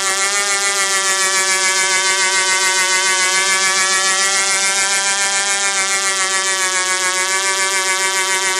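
Du-Bro Whirlybird 505 radio-control helicopter's small glow engine running at a steady high speed, its pitch rising slightly at first and then holding. A fast, even pulsing rides on the sound.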